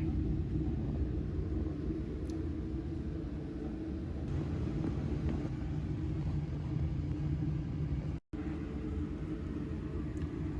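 Steady low rumble without clear features, broken by a short silent cut about eight seconds in.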